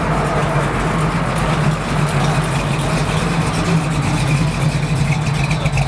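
A car engine idling with a steady, low drone.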